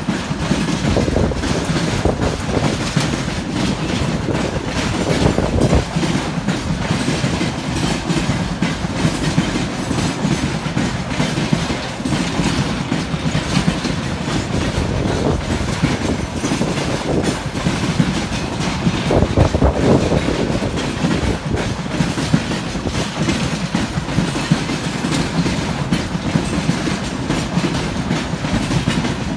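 Freight train of railway tank cars rolling past, a steady rumble of steel wheels on the rails with clickety-clack and occasional louder knocks as the wheels cross rail joints.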